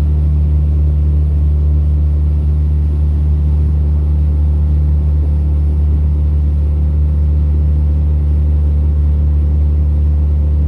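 Tohatsu 20 hp EFI four-stroke outboard motor running steadily at cruising speed on a small boat, with a constant low engine hum.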